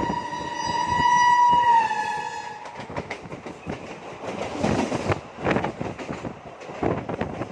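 Train horn sounding one long steady note that sags slightly in pitch and dies away about two seconds in. After it, the train's wheels clatter and knock over the rail joints.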